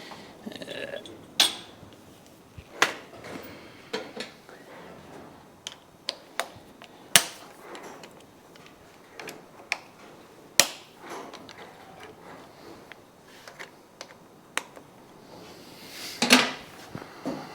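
Metal hand tools and motorcycle parts being handled during workshop repairs: scattered sharp clinks and knocks, the loudest about seven and ten and a half seconds in, with a longer, louder clatter near the end.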